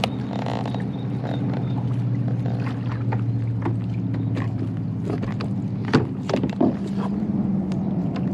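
A motor running with a steady low hum, with scattered sharp knocks and clicks over it; the loudest knock comes about six seconds in.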